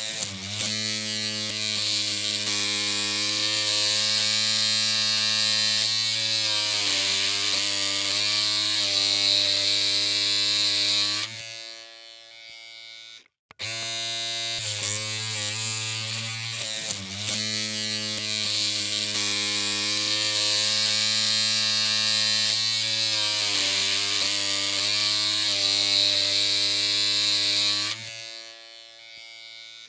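Electric hair clippers running with a steady, low buzzing hum. About eleven seconds in the hum cuts out to a faint hiss and a moment of silence, then starts again, and it cuts out again near the end.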